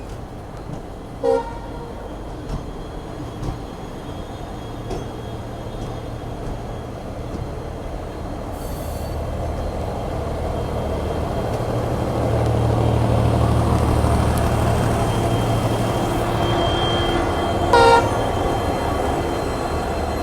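Passenger train moving off, its rail and running noise building steadily as it gathers speed. A short train horn toot sounds about a second in and another near the end.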